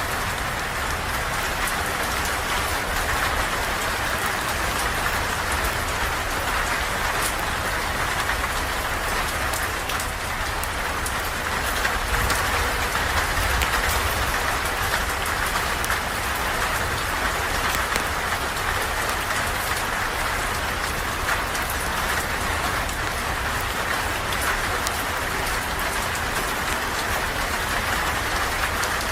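Steady rain falling on a surface: a constant hiss with a low rumble beneath it and many fine ticks of drops.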